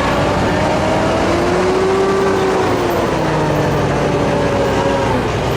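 A tractor engine running loudly and steadily, its pitch rising and then easing back down slowly.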